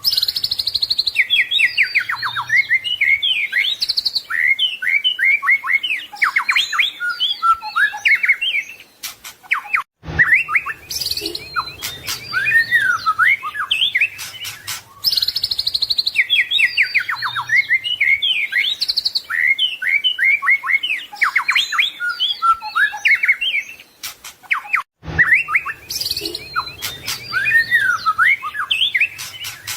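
White-rumped shama (murai batu) singing a long, varied song of rapid whistles, trills and up-and-down sweeps, full of borrowed phrases (isian). The song stops for a moment about a third of the way in and again near the end, then the same passage starts over.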